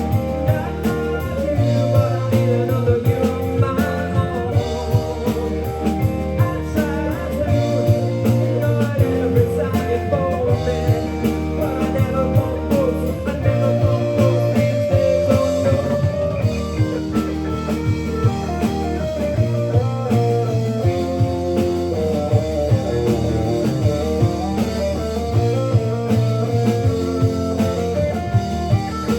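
Live rock band playing: electric guitars, bass guitar and a drum kit, with a guitar melody over a steady beat.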